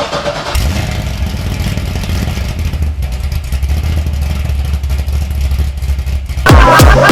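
Corvette Z06's V8 engine firing up on a freshly charged battery after sitting dead, catching about half a second in and then running steadily. Loud electronic music with falling sweeps cuts in near the end.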